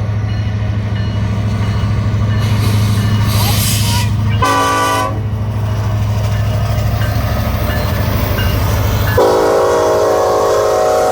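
BNSF freight train's diesel locomotive approaching the grade crossing, its engine giving a steady low rumble. The air horn sounds a short blast about four and a half seconds in, then a long blast from about nine seconds in: the end of the standard long-long-short-long crossing signal.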